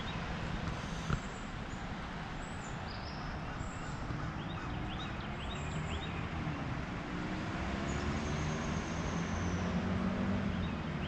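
Outdoor background with a motor vehicle's engine growing louder and slowly rising in pitch through the second half, as if passing nearby, and scattered short bird chirps.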